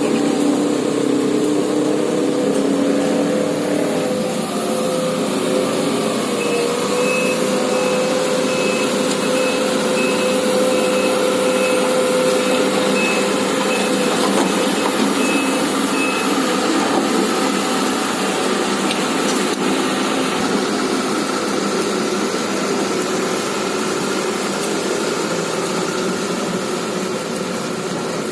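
Sumitomo SH210 hydraulic excavator's diesel engine running steadily as the machine travels. A high beep repeats about one and a half times a second from about six seconds in until about sixteen seconds, like a travel alarm.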